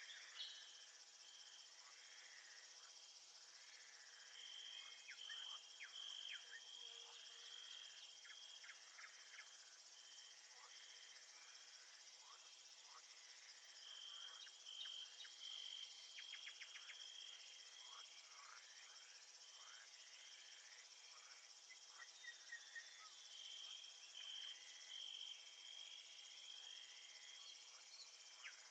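Faint nature recording of crickets chirping: a high trill that comes and goes in bouts of a few seconds, over a dense bed of insect noise with many short high chirps.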